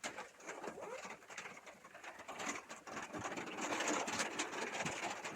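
Rain pattering on a van's metal roof, heard from inside the van, a dense spatter of small drop taps. A pigeon coos outside.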